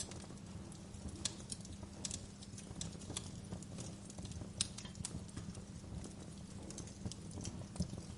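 Wood fire burning in a fireplace, crackling with irregular sharp pops over a low steady rumble of the flames; one of the loudest pops comes a little over halfway through.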